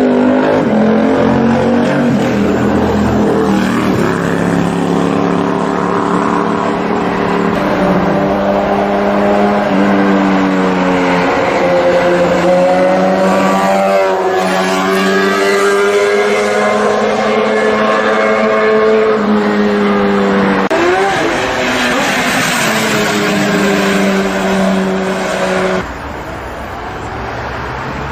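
Inline-four sportbike engine running hard at high, fairly steady revs, its pitch dipping and climbing several times with throttle and gear changes, including a quick rev up and drop about two-thirds of the way through. The sound drops suddenly in level near the end.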